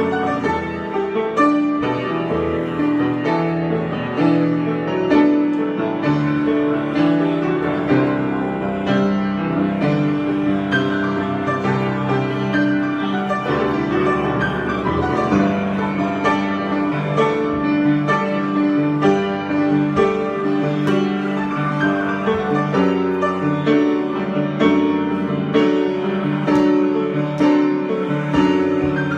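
Solo piano improvisation: a continuous flow of chords and melody notes that ring on and overlap.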